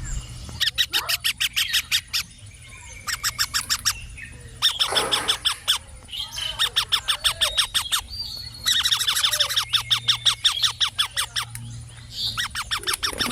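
Indian ringneck parakeet chattering in fast, rattling bursts of rapidly repeated notes, five or so bursts of one to three seconds each with short pauses between.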